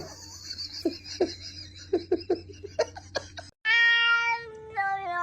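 A cat meowing in a series of short, falling calls. After a sudden cut comes a long, held sound that steps between pitches.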